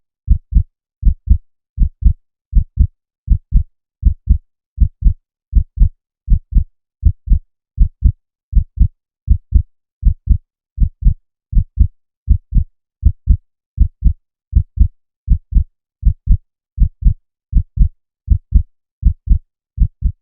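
A heartbeat: pairs of short, low thumps in a steady lub-dub rhythm, a little over one beat a second.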